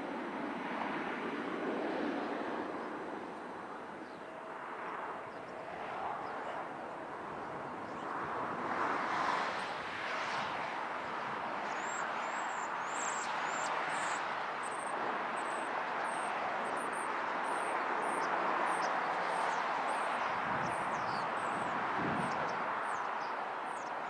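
Steady outdoor rushing noise, like distant traffic or aircraft, with a run of short, high chirps repeating about twice a second through the second half.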